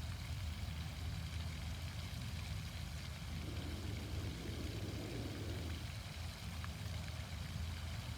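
Steady low hum under a soft, even hiss of outdoor background noise, with a faint swell of noise midway.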